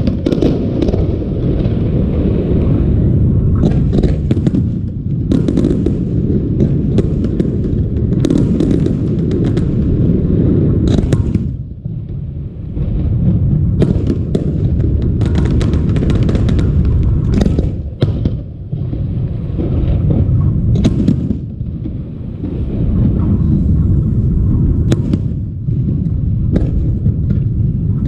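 Fireworks display: a dense, continuous barrage of deep booms and rumbling with many sharp cracks and crackles on top, easing briefly about twelve and eighteen seconds in.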